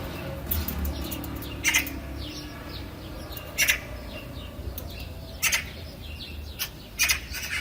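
Birds calling: a short, sharp call repeats about every two seconds, with softer chirps between, over a faint low rumble.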